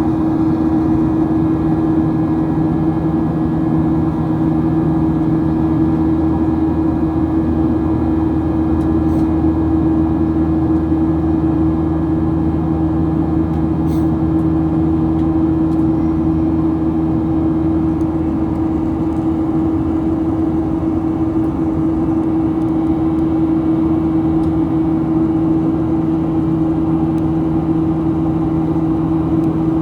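Boeing 737-800 cabin noise in flight: the CFM56-7B engines and rushing air make a steady drone with two constant low hums, unchanging throughout.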